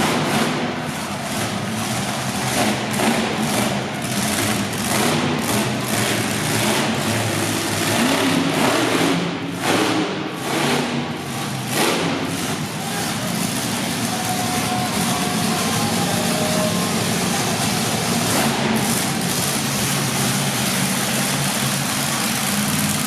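Monster truck engine running and revving, the throttle blipped again and again through the first half, then running more steadily.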